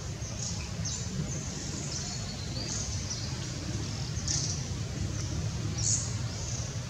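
Birds chirping: short, high, sweeping chirps repeating every second or so, over a steady low rumble.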